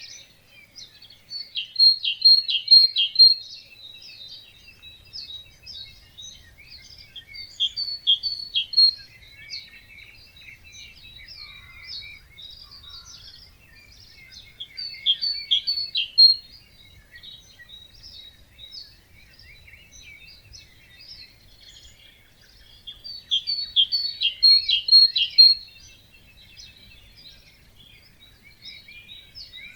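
Wetland birds singing: a loud, rapid song phrase comes four times, about every seven or eight seconds, over softer, continuous chirping from other birds.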